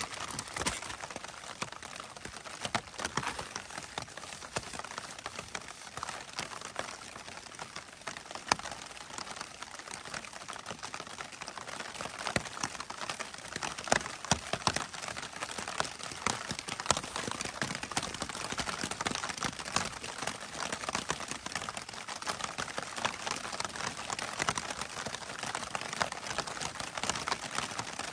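Rain pattering on the tent fabric: a dense, irregular ticking of drops. Now and then a plastic bag crinkles as wet wipes are handled.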